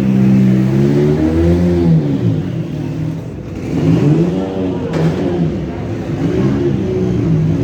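Sports car engines revving, their pitch rising and falling several times.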